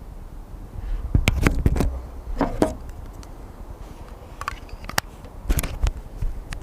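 Sharp clicks and knocks of small hard objects being handled, in two clusters: a run of clicks about a second in and another near the end.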